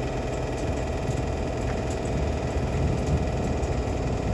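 Passenger train running at a station platform: a steady low machine hum with no sudden events.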